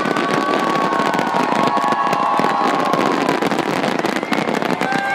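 Fireworks display: dense, continuous crackling from exploding crackle shells, with steady whistling tones over the first three seconds or so.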